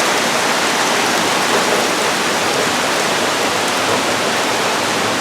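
Heavy rain pouring down steadily in a severe storm, with water gushing from overflowing roof gutters that can't handle the amount of rain.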